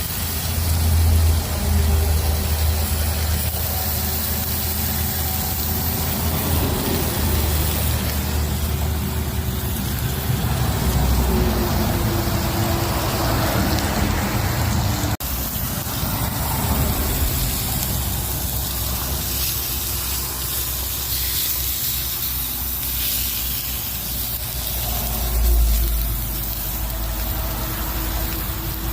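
Strong wind buffeting the microphone in uneven gusts, over a steady hiss.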